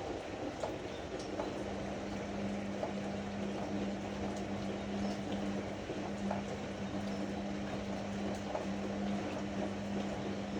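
Ariston AML125 washer-dryer running with water rushing through it; a steady low hum comes in about a second in and holds.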